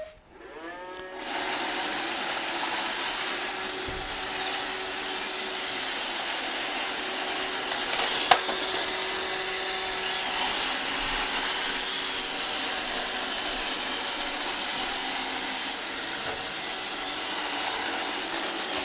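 iRobot Roomba 650 robot vacuum starting a cleaning run: its motors spin up with a short rising whine in the first second, then its vacuum and brush motors whir steadily as it drives. A single sharp knock comes about eight seconds in.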